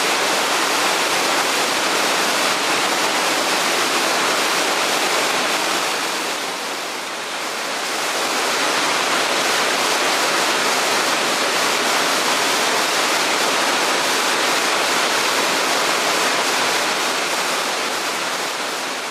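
Waterfall pouring, a loud steady rush of falling water that dips slightly about seven seconds in before returning to full strength.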